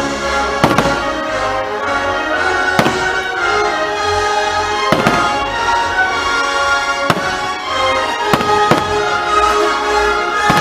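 Fireworks shells bursting, about six sharp bangs roughly two seconds apart, over loud brass-led show music.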